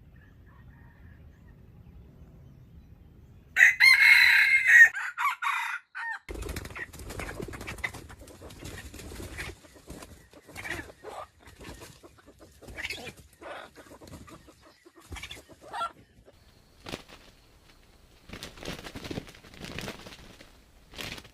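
A rooster crows once, loudly, about four seconds in. This is followed by a long run of irregular scuffling and rustling with scattered clucks.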